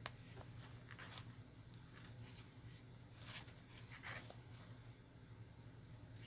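Faint scratchy rustling of waxed thread being drawn through a journal's paper spine and the pages being handled, a few short scrapes over a low steady hum.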